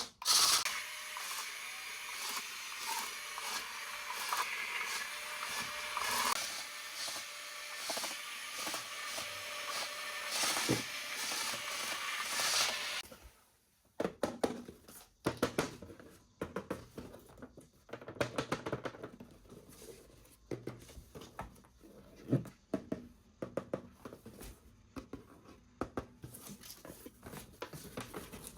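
A small electric toy motor whirs steadily for about thirteen seconds, then cuts off suddenly. Scattered light clicks and rustles of handling follow.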